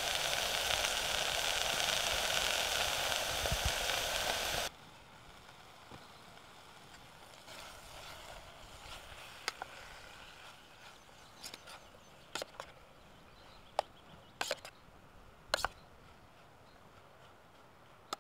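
Onions, chorizo and bacon sizzling loudly in a small camping pot over an alcohol stove, cutting off suddenly about five seconds in. After that, a quiet background with a scattering of sharp clicks and scrapes as a spoon stirs the pot.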